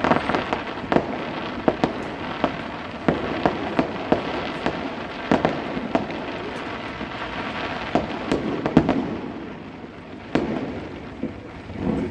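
Fireworks display: a rapid run of aerial shell bursts and crackling, many sharp bangs close together. It thins out about two-thirds of the way through, then a few more bangs go off near the end.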